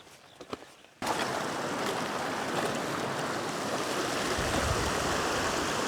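A few faint footsteps, then a small alpine stream's steady rushing, which starts abruptly about a second in.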